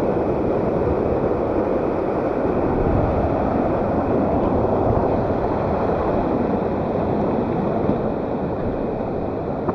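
Steady rush of a waterfall, water pouring and splashing.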